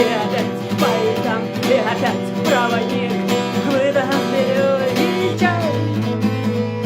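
Acoustic guitar played with a pick: steady chords under a melody line of sliding, bending notes.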